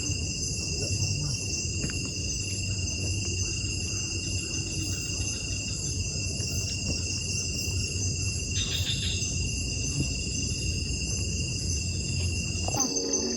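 Night insects such as crickets chirping in a steady high, unbroken chorus, over a steady low rumbling noise that stops suddenly near the end.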